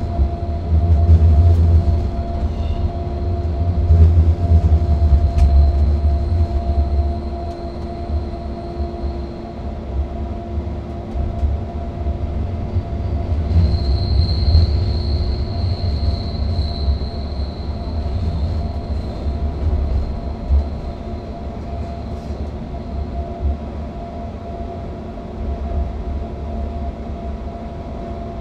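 Electric train on the Flåm Railway climbing the line, heard from the driver's cab: a steady low running rumble with a constant hum. A thin, high wheel squeal, faint early on, grows strongest around the middle and dies away a few seconds before the end.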